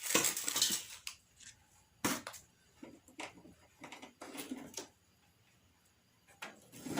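Plastic packaging and containers rustling and clicking as frozen items are handled and taken out of a refrigerator's freezer: a rustle at the start, then scattered clicks and short rustles.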